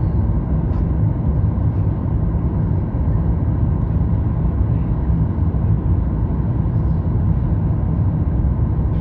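Steady low rumble inside the cabin of a Boeing 737 MAX-8 in flight: its CFM LEAP-1B engines and airflow over the fuselage, heard from a window seat.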